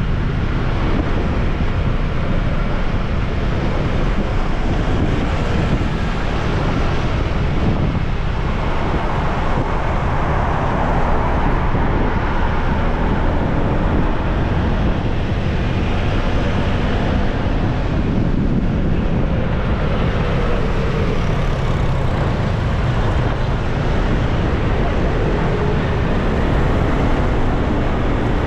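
Wind rushing over the microphone of a moving motorbike, a steady loud rumble, with road and traffic noise beneath it.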